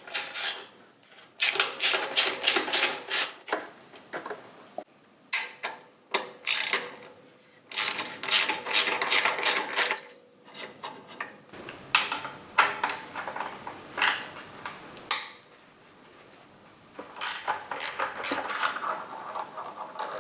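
Hand ratchet clicking in several quick runs with short pauses between them, as the exhaust clamps and mounting bolts are loosened.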